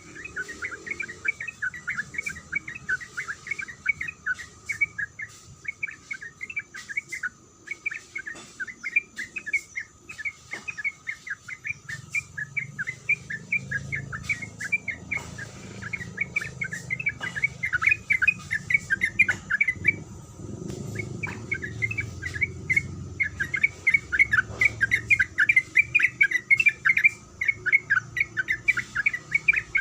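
Yellow-vented bulbul (trucuk) calling: a long, fast run of repeated chirping 'kuik' notes, about five a second, broken by a few short pauses.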